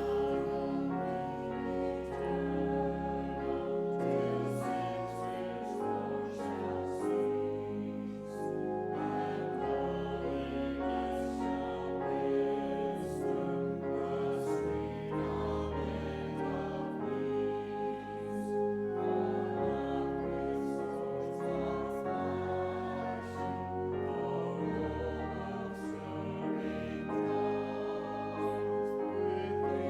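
Congregation singing a hymn together over instrumental accompaniment, with long held bass notes that change every second or two.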